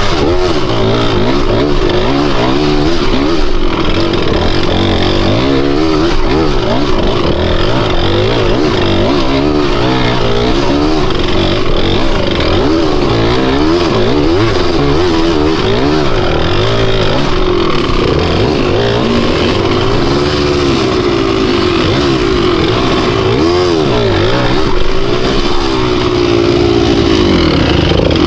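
Dirt bike engine running under constant throttle changes, its pitch rising and falling every second or two as it is ridden over rough, uneven ground.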